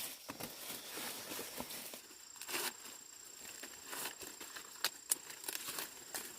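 Dry corn leaves and husks rustling, with sharp snaps here and there, as ears of corn are broken off the stalks by hand. The loudest snaps come about five seconds in.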